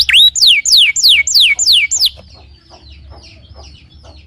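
Canary singing: a fast run of loud, repeated whistled notes, each sweeping down in pitch, several a second. The run stops about two seconds in, leaving only faint soft chirps.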